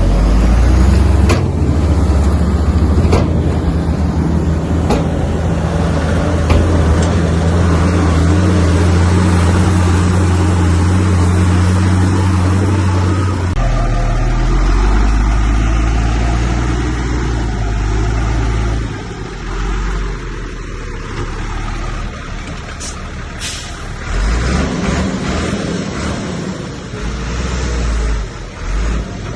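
Heavy diesel earthmoving machinery running loud and steady under load, its engine note changing about halfway through and then dropping. Short bursts of air hiss follow in the latter part.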